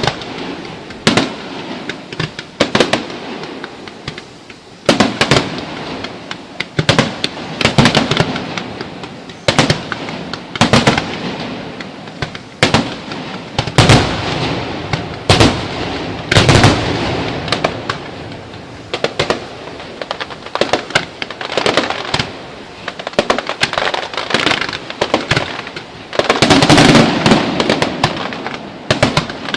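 A fireworks display: aerial shells bursting in a long irregular series of sharp bangs. Near the end the bangs come in a dense rapid flurry with crackling.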